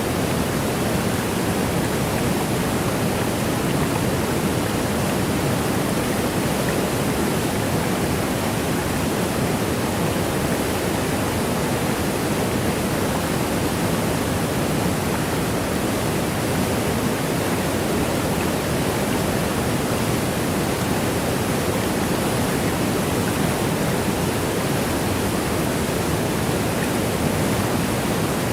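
Waterfall rushing steadily, an even wash of falling water without any change, fullest in its lower middle range.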